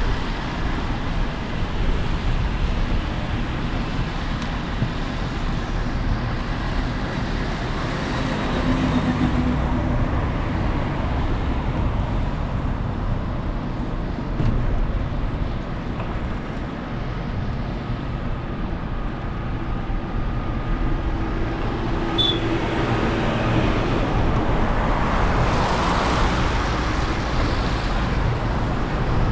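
Road traffic on a rain-wet town street: a steady noise of passing vehicles and tyres, with one vehicle swelling louder and fading away near the end.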